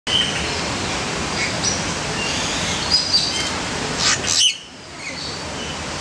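Small birds chirping: many short, high calls over a steady rushing background. Just past four seconds comes a louder call that falls in pitch, and then the background briefly drops away.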